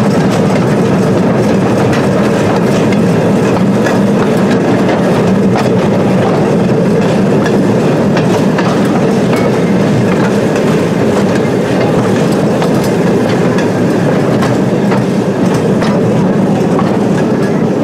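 A small excursion train running slowly on an open car: the steady rumble of the locomotive and wheels on the track, with frequent irregular clicks of the wheels over rail joints.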